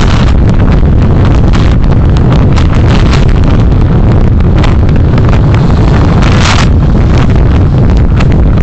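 Loud, steady rumble of road and wind noise from a moving car, picked up by a dashcam microphone, with scattered light clicks and a short hissing swell about six and a half seconds in.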